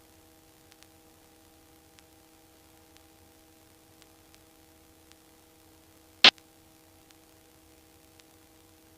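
Helicopter headset intercom line with no one talking: a faint steady electrical hum, a few faint ticks, and one sharp loud click about six seconds in.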